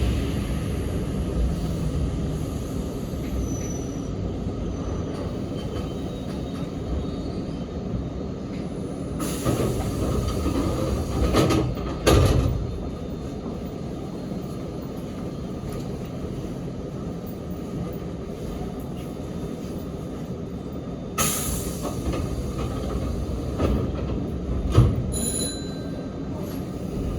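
Inside a Sanyo Electric Railway 3050 series train car: steady running noise of the wheels on the rails and the car body rumbling, with a few short louder clatters partway through.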